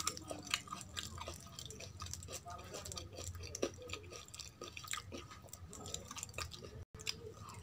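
Close-up chewing with wet, squishy clicks and smacks as rice and kadhi are mixed by hand on a steel plate. The sound drops out for a moment about seven seconds in.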